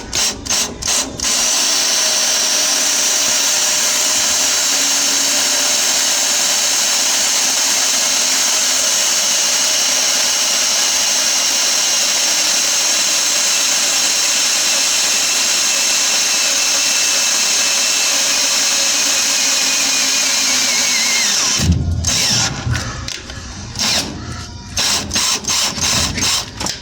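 Electric drill boring a hole for an exhaust hanger bolt. A few short trigger blips are followed by one long steady run of about twenty seconds, whose pitch sags slightly near the end before it stops suddenly. Several short stop-start bursts follow.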